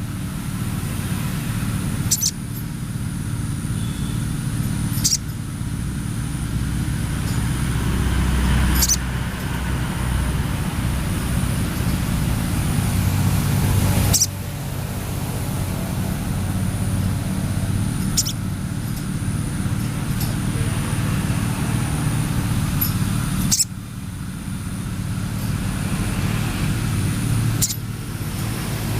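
Sogon bird lure recording: a sharp call every few seconds over a steady low rumble of background noise.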